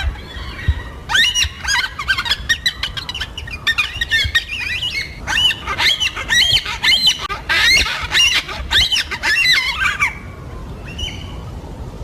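A flock of yellow-tailed black cockatoos squawking, with many short calls overlapping in a dense chatter that thins out near the end. A low rumble runs underneath.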